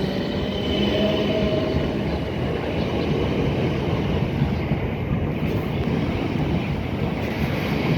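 Train running along the track: a steady rumble of wheels and running gear, with a faint whine of tones that fades away in the first second or so.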